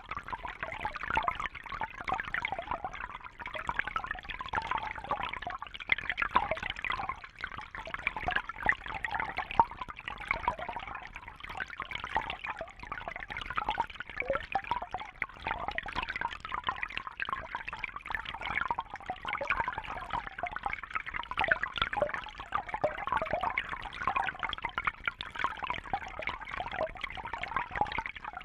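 Water in a fish tank trickling and bubbling steadily, a dense patter of small splashes.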